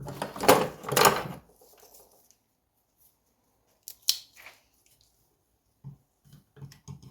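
Small metal hand tools and engine parts handled at a workbench: a burst of clattering in the first second or so, then quiet, with one sharp metallic click about four seconds in and a few light clicks near the end, as work begins on a circlip on the engine's crankshaft.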